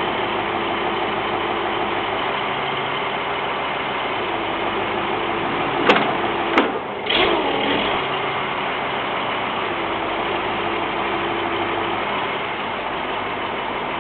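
A vehicle engine idles steadily. There are two sharp clicks or knocks about six seconds in, half a second apart.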